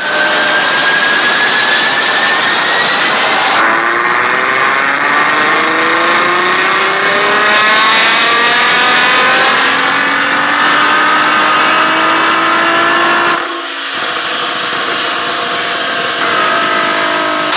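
Nissan GT-R R35's twin-turbo V6 running loud at high revs, its pitch climbing steadily in long pulls. The pitch drops sharply about four seconds in and then climbs again. There is a brief dip about three-quarters of the way through, after which the engine holds a steadier pitch.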